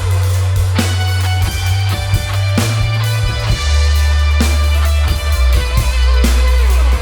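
Live band playing an instrumental passage: guitars over a drum kit, with deep bass notes that change every second or two.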